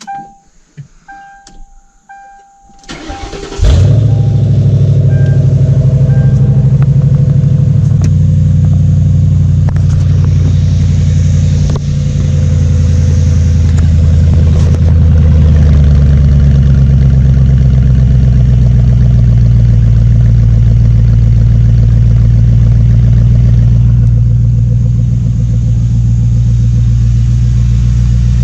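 2005 Mercury Grand Marquis 4.6-litre V8 with no exhaust behind the catalytic converters (muffler and pipes removed) being started: a few dash chime tones, a brief crank, and the engine catches about three and a half seconds in. It then idles loud with a deep, open-exhaust rumble, and the idle note settles a little about eight seconds in.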